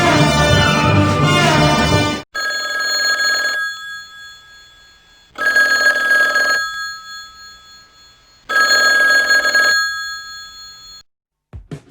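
Telephone bell ringing three times, each ring lasting about a second and fading, roughly three seconds apart. Before it, orchestral music cuts off about two seconds in.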